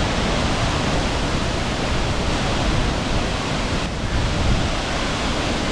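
Wachirathan Waterfall heard up close: a steady, dense rush of falling water with no breaks.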